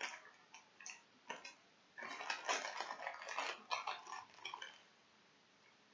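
Close-up wet mouth clicks and smacking from chewing gummy fruit snacks: a few single clicks, then a dense crackly run lasting about three seconds.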